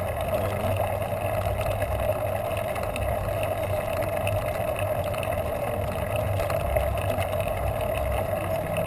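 Steady rumble of wind and road noise picked up by the rider's camera while cycling, with no breaks or distinct events.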